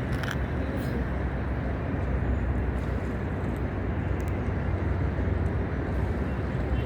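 Steady low rumble of wind on the microphone over the wash of the sea, with no breaks or single loud events.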